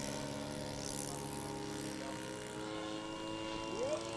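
Radio-controlled model airplane engine and propeller running at a steady pitch, with a brief rising whine near the end.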